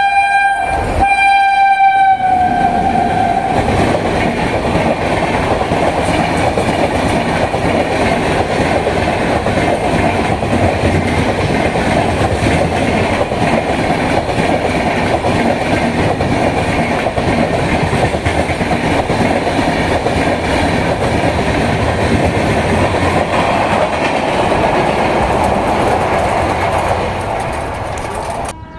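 An Indian Railways electric locomotive's horn blowing one continuous note for the first couple of seconds, dropping in pitch as the locomotive passes. Then the express train's coaches run past at speed with a steady clickety-clack of wheels on rail joints, fading slightly near the end before cutting off.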